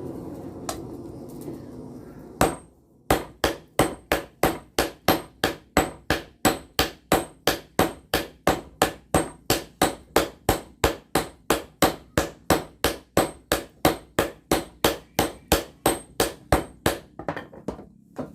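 Blacksmith's hand hammer beating a rail-steel golok blade on an anvil, even blows at about three a second, each with a short bright ring. The hammering starts after about two seconds of steady rushing noise and stops shortly before the end.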